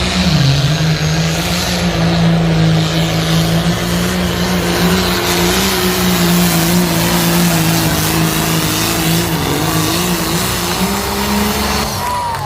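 Pulling tractor's engine running flat out under load, a loud steady drone. Its pitch sags briefly just after the start and wavers slightly later in the run.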